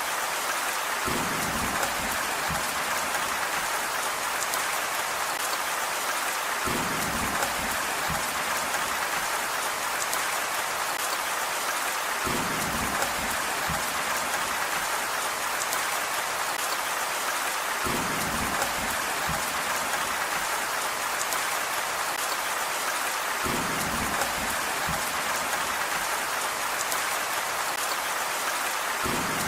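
Steady rain falling, an even hiss of drops. A short patch of heavier, deeper drop impacts recurs about every five and a half seconds.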